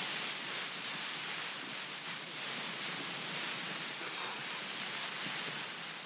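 Heavy rain and wind on a tent, heard from inside: a steady hiss.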